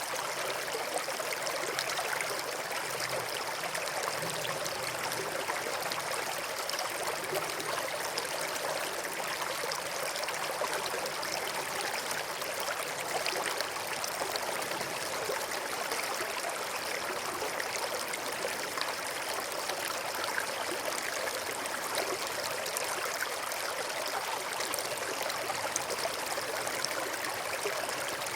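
River water flowing steadily over and between rocks, an even rushing babble with no pauses.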